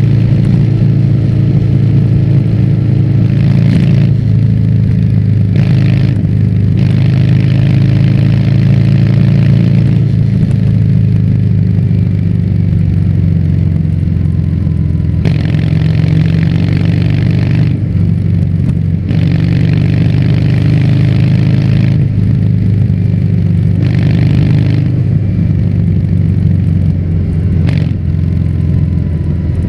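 Harley-Davidson Fat Bob 114's V-twin engine running through a Vance & Hines exhaust under way, a loud, steady low exhaust note with a harsher upper edge that comes and goes several times.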